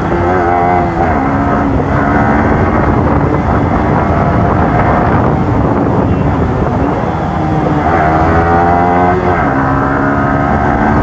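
Motorcycle engine and exhaust running under way with wind noise on the microphone. The engine note drops about a second in, climbs again towards the end and drops at a gear change.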